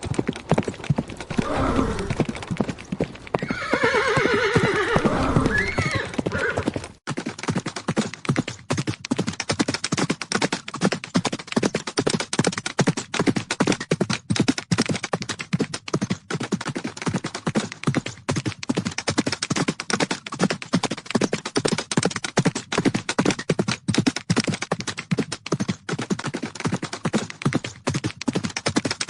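Horses galloping, a rapid, continuous drumming of hoofbeats. A horse neighs loudly in the first few seconds. The sound cuts abruptly about seven seconds in, and the galloping carries on.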